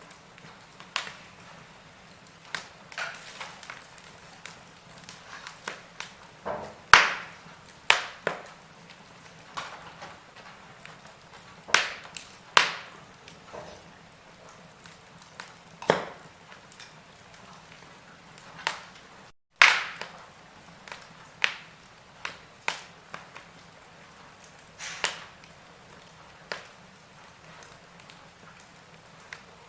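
Wood fire in a fireplace crackling, with irregular sharp pops, several of them loud, over a faint steady hiss. The sound cuts out for a split second about two-thirds of the way through, followed at once by a loud pop.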